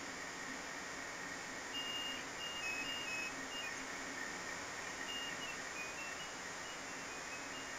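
Ice cream truck jingle: a faint, thin melody of short high chime notes in two phrases, over a steady background hiss.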